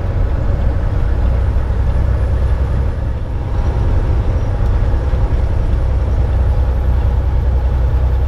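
Semi truck driving: a steady low engine drone with road noise.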